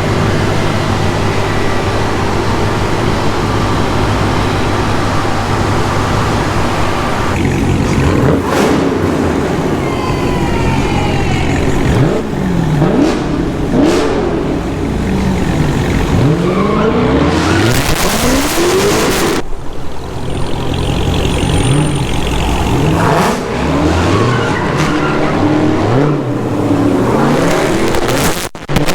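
Dodge Hellcat's supercharged 6.2-litre HEMI V8 idling steadily, then revved again and again from about eight seconds in, its pitch climbing and dropping with each blip of the throttle.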